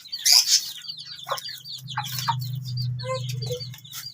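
Chicks peeping continuously, quick high-pitched cheeps several times a second, with a few lower clucking calls from the mother hen. A low steady hum sits underneath from about a second in until near the end.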